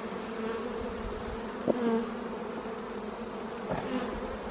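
Honeybees buzzing around an opened hive, a steady hum, with a brief louder note about a second and a half in.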